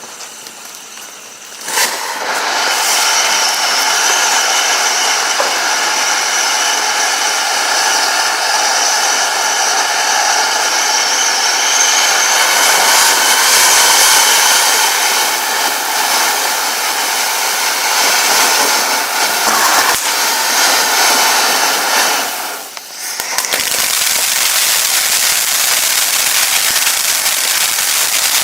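Spinning firework burning. After a short quieter fizz it gives a loud steady hiss with a shrill whistling tone for about twenty seconds, then, after a brief dip, changes to dense crackling near the end.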